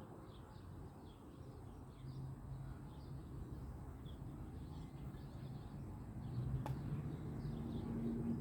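Faint, short bird chirps repeated every second or so, small birds calling in alarm, over a low steady hum, with one sharp click about six and a half seconds in.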